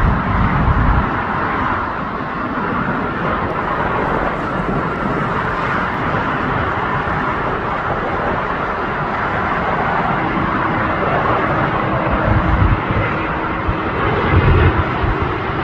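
Jet airliner engines running, a steady broad noise with irregular low rumbles near the start and again toward the end. A faint steady tone sits in it for a few seconds after about ten seconds in.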